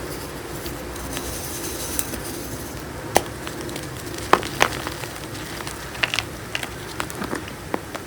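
Gym chalk chunks crushed between the fingers: a scatter of sharp crunchy snaps at uneven intervals, the loudest a little after three seconds in and a pair about four and a half seconds in, over a steady faint hiss.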